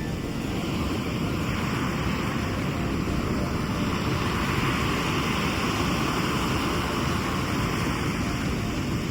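Sea waves on the shore: a steady low rumble of surf, with a hiss of washing water that swells a couple of seconds in and eases off near the end.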